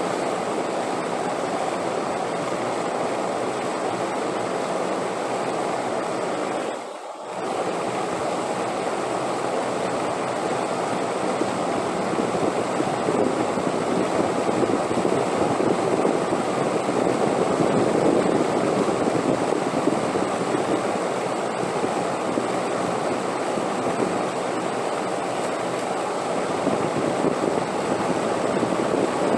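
Steady wind noise, a smooth rushing haze that swells slightly in the second half. It dips briefly about seven seconds in. A faint steady high whine runs beneath it.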